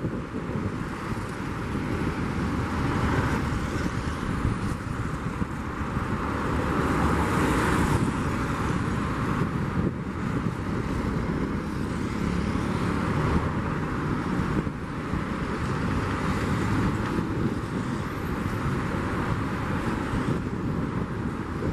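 Steady rushing rumble of jet aircraft engines, swelling a little about seven seconds in, with wind buffeting the microphone.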